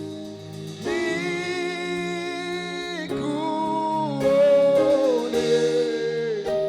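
Gospel worship music: a voice holds a series of long, slightly wavering notes, changing pitch every second or so, over steady instrumental backing.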